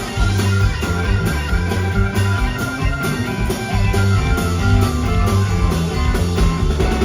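Live country-rock band playing an instrumental passage, electric guitar to the fore over bass and drums, picked up loud through a phone-type recorder in the crowd.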